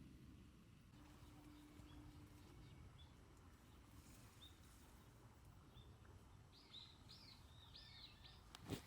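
Faint outdoor ambience with a bird calling: single short chirps every second or so, then a quick run of arching notes near the end. A sharp click comes just before the sound cuts off.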